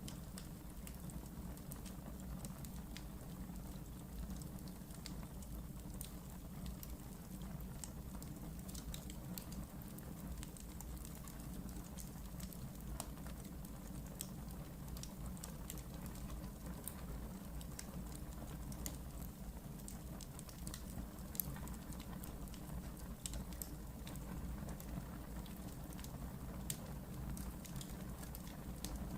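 Wood fire burning in a fireplace: a steady low rumble of flames under frequent small irregular crackles and pops, with one louder crack about 21 seconds in.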